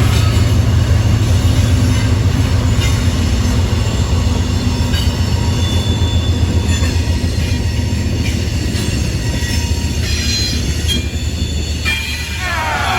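Diesel-hauled freight train rolling past close by: a heavy low locomotive engine rumble with steel wheels on rail, and thin high-pitched wheel squeals that come on stronger and fall in pitch near the end.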